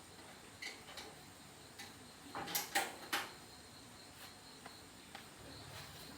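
Scattered light clicks and knocks of objects being handled, with a cluster of three or four sharper ones about two and a half to three seconds in.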